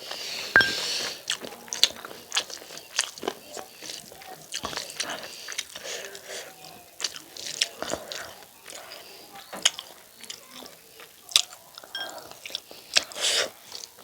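Close-up eating sounds: irregular wet chewing, lip smacks and bites of rice and chicken curry eaten by hand, with a few sharper crunchy bites.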